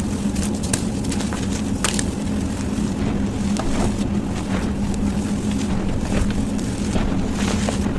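Blocks of gym chalk being crushed, sped up to double speed: scattered crunches and crackles over a steady low hum and rumble.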